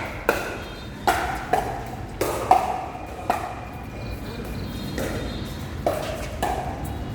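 Pickleball rally: sharp pops of paddles striking a plastic ball, coming less than a second apart for the first three seconds or so. A few fainter hits follow near the end.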